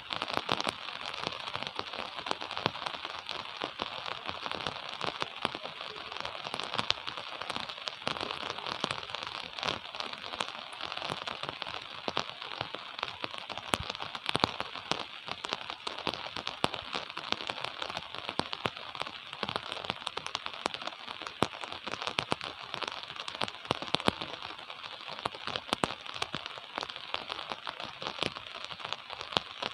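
Steady gentle rain falling, a dense patter of countless close drop ticks.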